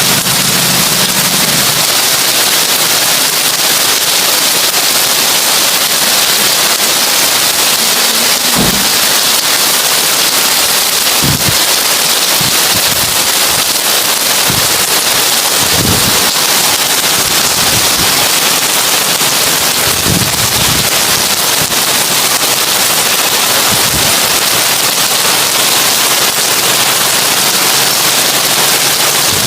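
Heavy rain falling on a tin roof: a dense, steady hiss with a handful of brief low thuds scattered through it.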